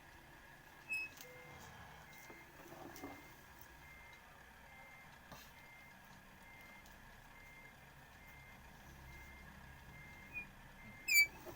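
A vehicle's reversing or parking warning beeper giving a steady run of short high beeps, about one a second. A louder, sharper high chirp comes about a second in, and another, the loudest sound, near the end.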